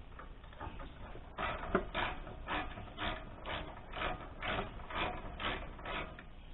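Hand ratchet wrench working a panel bolt loose, clicking in short strokes about twice a second, some ten strokes in a row.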